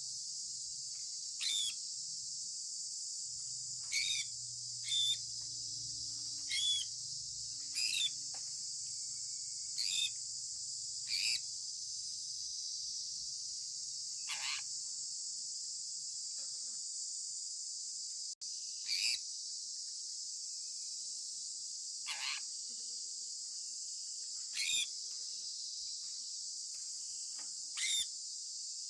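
Sun conure parrot chirping: short calls that fall in pitch, about a dozen of them, one every second or two, over a steady high hiss.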